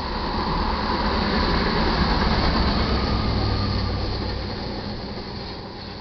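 Rear distributed-power EMD SD70ACe diesel locomotive passing at the tail of a freight train. Its engine rumble and wheel-on-rail noise grow to a peak about two to three seconds in, then fade as it moves away, a higher tone sliding down in pitch as it goes.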